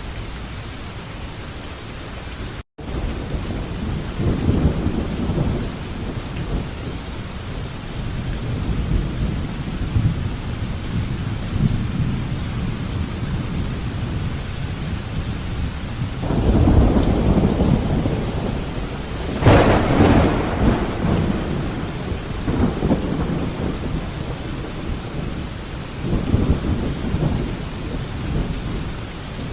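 Steady rain with rolling thunder: low rumbles swell and fade several times, the biggest building past the middle and peaking in a sharp crack. The sound cuts out completely for an instant about three seconds in.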